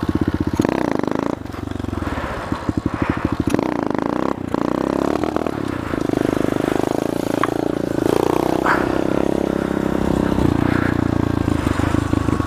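SSR 125 pit bike's single-cylinder four-stroke engine running under the rider, revving up and easing off several times, with brief drops in between.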